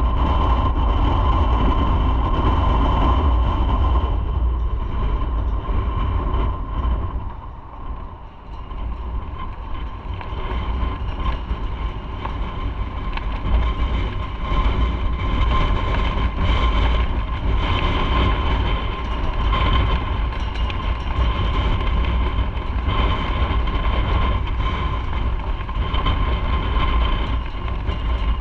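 Motorcycle ride at road speed: a heavy low wind rumble on the microphone over a steady engine tone, easing briefly about eight seconds in before building again.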